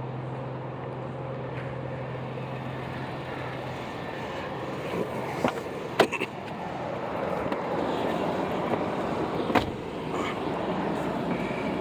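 Motor vehicle sounds: a steady low hum that stops about four seconds in, a few sharp knocks, then a louder rushing noise like road noise.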